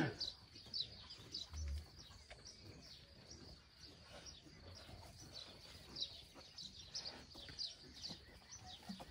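Small birds chirping faintly and repeatedly, with a few soft knocks.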